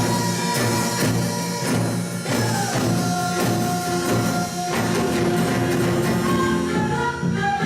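A Korean traditional-music (gugak) ensemble playing live: a melody of held notes over a steady percussion beat.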